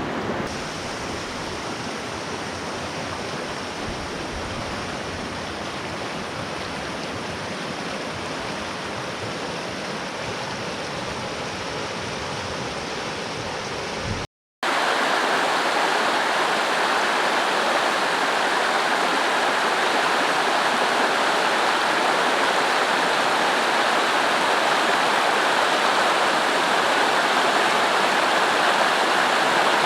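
Creek water rushing steadily over small rapids. About halfway through, the sound breaks off for an instant and comes back louder and brighter, as the water rushes on.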